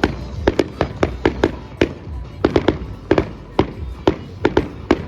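Aerial fireworks going off in a quick, uneven run of sharp bangs and pops, several a second, with music playing underneath.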